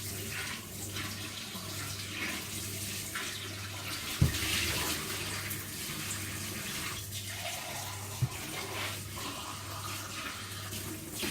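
Water running steadily, as from a kitchen tap, over a low hum. Two knocks sound about four and eight seconds in, the first the louder.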